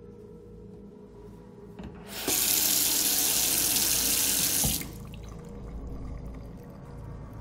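Kitchen mixer tap turned on, water running hard into a stainless steel sink for about two and a half seconds, then shut off abruptly.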